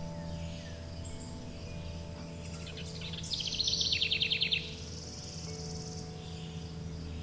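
A songbird sings a rapid trill of about a dozen quick notes starting about three seconds in, then a brief higher buzzy trill. Underneath are long, sustained wind-chime tones and a low steady hum.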